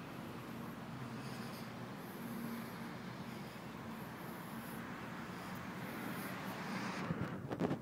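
Caterpillar 140H motor grader's diesel engine running steadily at a low, even note, with a hiss over it. A few sharp knocks come in the last second.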